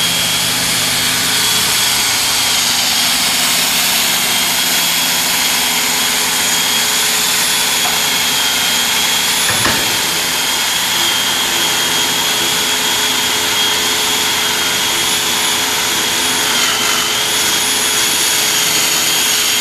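Powered drill boring through solid concrete: a steady mechanical run with a high whine. About ten seconds in there is a single knock.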